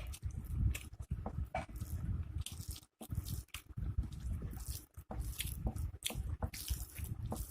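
Close-miked eating: irregular wet chewing and lip smacking, with some crunching, from a person eating rice, curry and fried pakoras.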